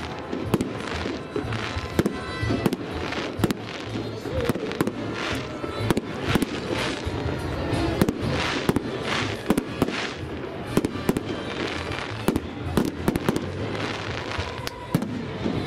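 Fireworks display: aerial shells bursting overhead in a rapid, irregular series of bangs and crackles.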